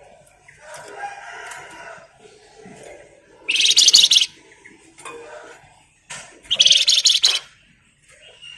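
Flamboyan songbird singing: soft, broken twittering interrupted by two loud, rapid rattling trills (ngebren), one about three and a half seconds in and one about six seconds in, each lasting about a second.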